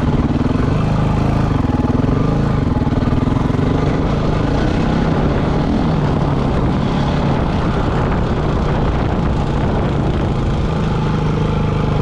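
Off-road motorcycle engine running, its pitch rising and falling a little as the throttle changes.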